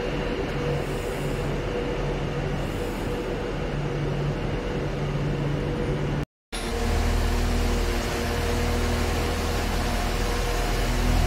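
Steady mechanical hum of a passenger train standing at a station platform, with a few steady tones in it. It breaks off for an instant about six seconds in and comes back louder and deeper, and a tone starts to rise near the end.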